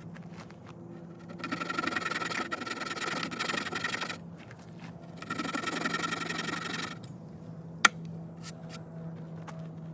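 Hand drill at work: a dogfennel spindle spun between the palms, grinding in the socket of a hard tulip poplar fireboard, in two bouts of a few seconds each with a short pause between. A single sharp click comes near the end.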